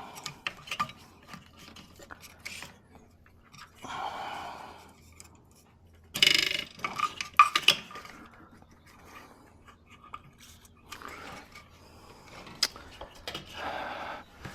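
Scattered clicks and light clinks of tools and parts being handled during car interior disassembly, with a louder clatter about six seconds in.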